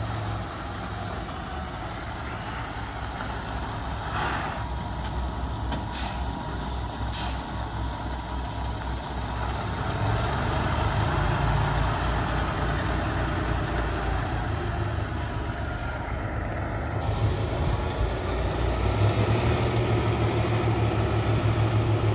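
Peterbilt semi truck's diesel engine running, with three short hisses of air about four, six and seven seconds in, and the engine growing louder in the second half.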